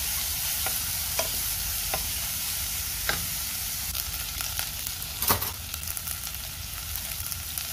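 Chopped onion, ginger, garlic and green chilli sizzling in hot coconut oil in a kadai, a steady frying hiss. A wooden spatula knocks against the pan now and then, the loudest knock a little past halfway.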